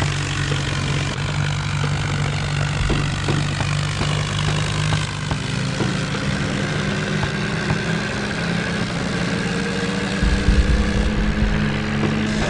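Modified John Deere tractor's diesel engine running hard, its pitch creeping slowly upward in the second half, with a burst of deep rumble near the end.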